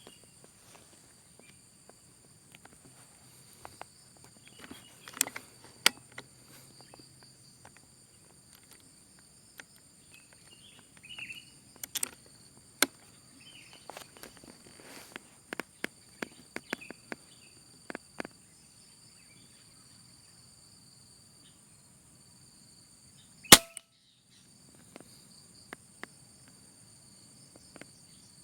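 A single sharp gunshot about 23 seconds in, the loudest sound by far, amid scattered small clicks and rustling from movement. A steady high insect buzz runs underneath.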